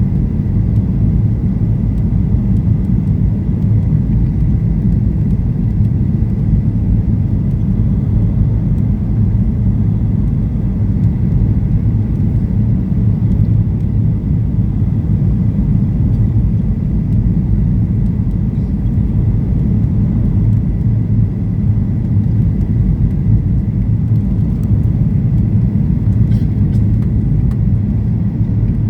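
Steady cabin rumble inside a Boeing 737-800, from its CFM56 engines and the airflow over the fuselage, with a faint steady whine above it.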